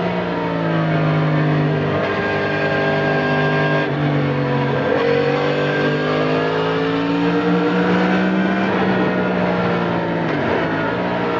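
Yamaha MT-10 SP's crossplane inline-four engine through an Akrapovic titanium slip-on exhaust, heard from onboard while riding. The engine pitch rises and falls with the throttle, with sudden drops about four seconds in and near the end.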